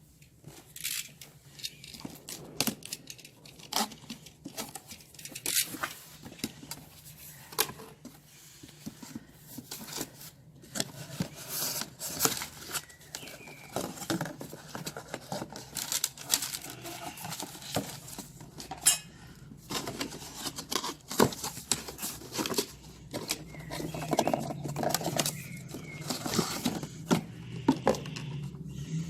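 Handling noises: irregular sharp clicks, knocks and rustling, with no saw motor running.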